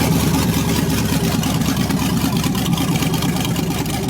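Car engine idling loudly and steadily through its exhaust, most likely the 1979 Chevrolet Caprice Landau's V8.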